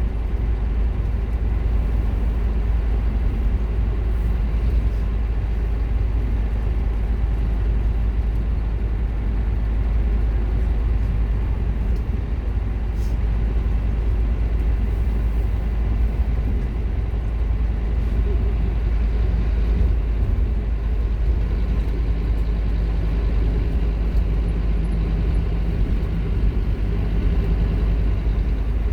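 Scania K230UB Omnilink single-deck bus's diesel engine running under way, a loud steady low rumble, with a steady engine note coming through from about twenty-two seconds in.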